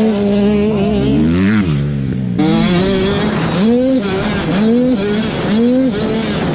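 85cc two-stroke motocross bike engines running on the track. Near the middle, one engine revs up and drops back three times in quick succession.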